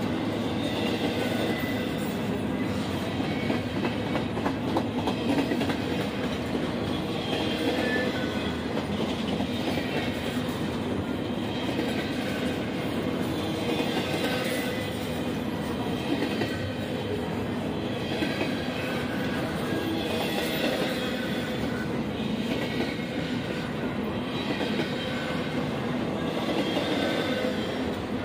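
Freight cars of a passing train rolling by close and at speed: a steady rumble and clatter of steel wheels on the rails, with faint high tones from the wheels coming and going.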